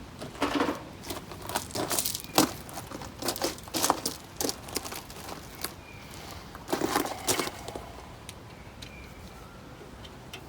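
Hand work on small engine parts: scattered clicks, knocks and rustling of tools and metal parts being handled, busiest in the first two thirds and quieter near the end.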